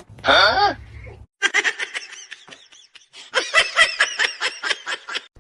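A person laughing hard in rapid, high-pitched bursts, in two long runs with a short break between them, after a short vocal cry at the start.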